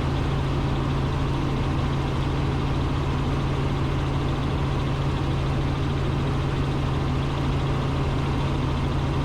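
Robinson R44 Raven II helicopter in cruise flight, heard from inside the cockpit: a steady drone of engine and rotors with a strong, constant low hum.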